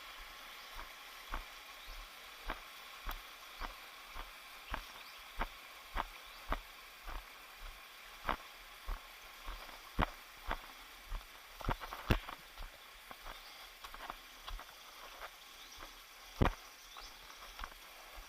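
Footsteps of a hiker walking at a steady pace, nearly two steps a second, over a steady background hiss.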